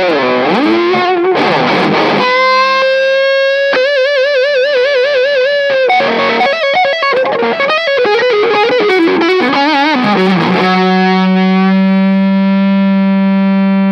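Distorted electric guitar playing a lead line with string bends and wide vibrato, then a low note held and sustaining through the last few seconds. It is played through a compact power amp built around a single EF95 (6J1) mini pentode tube with a class D output stage.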